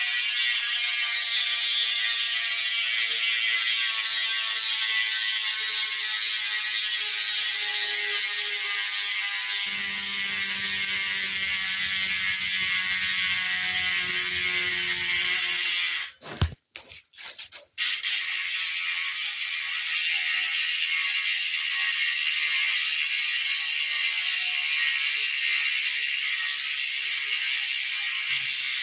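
Brand-new ARC MT039 bicycle hub freewheeling, its pawls clicking in a fast continuous buzz that slowly falls in pitch as the wheel slows. It cuts out briefly about two-thirds of the way through, then starts again.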